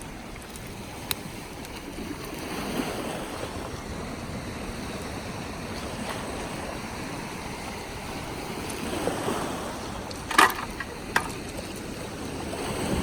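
Sea waves washing onto the shore in slow surges. A few sharp clicks come through, the loudest about ten seconds in.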